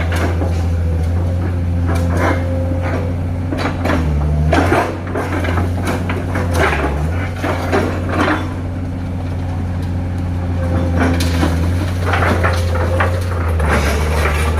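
Heavy diesel engine running steadily at low revs, with repeated metallic knocks and rattles over it.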